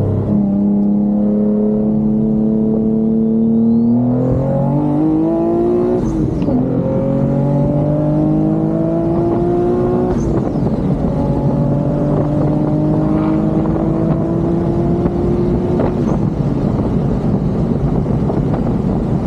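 Twin-turbo Infiniti G37's V6 engine pulling hard under full throttle. Its pitch climbs steadily through the gears, drops back at upshifts about 6 and 10 seconds in, and breaks off when the throttle is lifted near 16 seconds.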